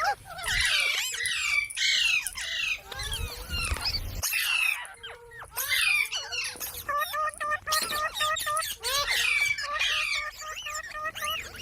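Parrot squawking: repeated harsh calls that slide downward in pitch, then, in the second half, a fast run of short clipped chirps.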